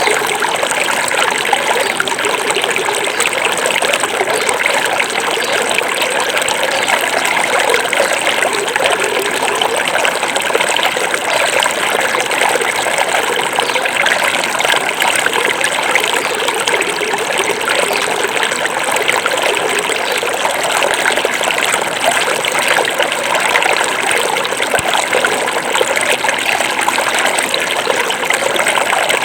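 Small forest river flowing over stones: a steady, unbroken rush and trickle of water.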